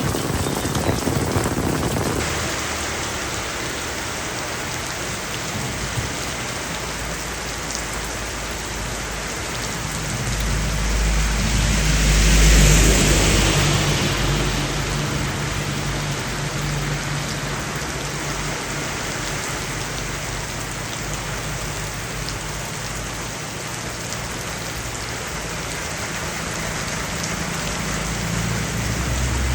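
Heavy rain falling steadily. About halfway through, a low rumble swells up and fades away over a few seconds.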